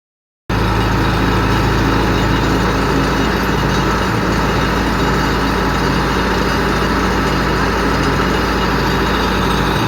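The engine of a piling rig running steadily, with no hammer blows.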